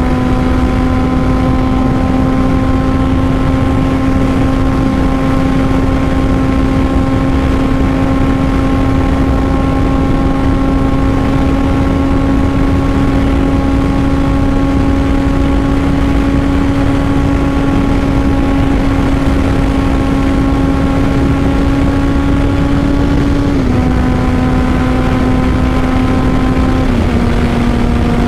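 Honda CBR600RR inline-four with a Two Brothers full exhaust, held at steady high revs under way, its note creeping up slowly. Near the end the pitch drops in two steps, about three seconds apart, as it shifts up. There is steady wind rush underneath.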